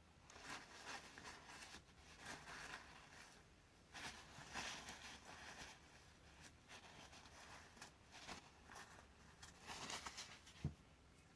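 Faint rustling and light clicks of birdseed and plastic food holders being handled, with a small knock near the end.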